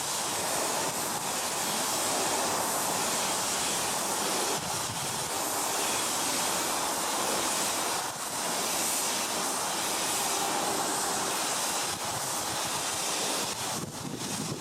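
Compressed-air paint spray gun hissing steadily while spraying primer, with brief breaks about every four seconds between passes.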